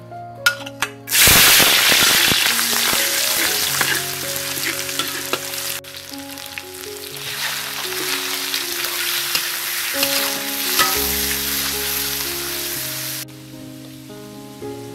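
Food hits hot oil in a wok with a sudden loud sizzle about a second in. The frying sizzle goes on as shrimp cook and are stirred with a metal ladle, then drops off sharply near the end. Soft background music plays underneath.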